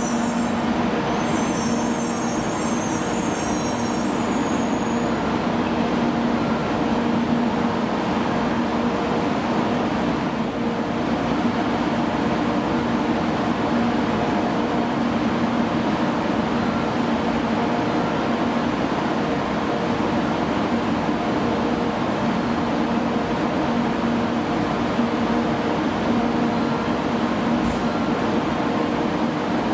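N700S Shinkansen train standing at the platform, its onboard equipment giving off a steady hum over a constant mechanical whirr.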